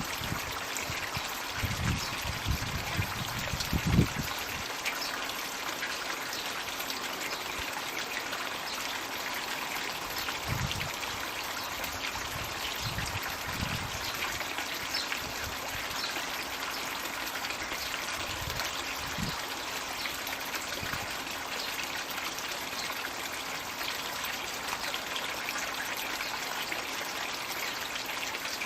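Steady trickling and splashing of water pouring from a floating Magic Bucket water feature into a garden pond. Several dull low thumps come in the first few seconds, the loudest about four seconds in.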